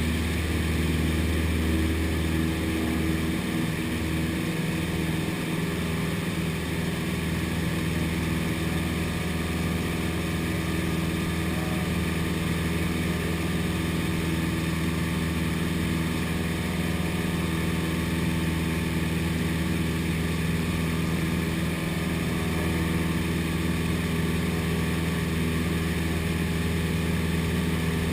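Cessna 172's piston engine and propeller running at a steady drone, with a slight change in the low engine note about three seconds in.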